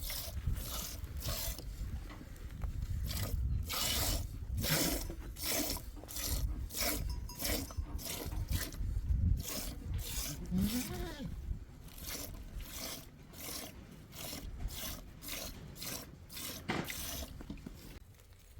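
Repeated scraping strokes by hand, about two a second and somewhat uneven, growing quieter in the second half and stopping near the end.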